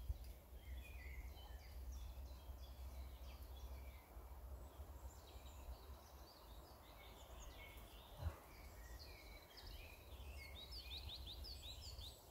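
Several small birds chirping and singing in overlapping short notes, with a quick run of falling notes near the end, over a faint low rumble. A single knock sounds about eight seconds in.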